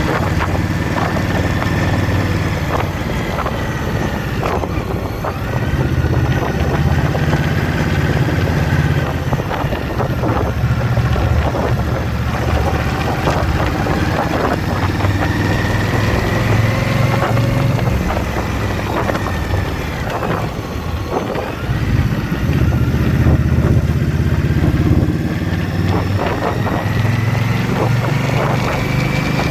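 Motorcycle engine running while riding, its note swelling and easing every few seconds as the throttle changes, over a constant rush of wind and road noise.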